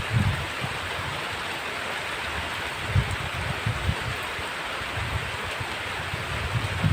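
Heavy rain falling steadily as an even hiss. Brief low rumbles come at the start, in the middle and near the end.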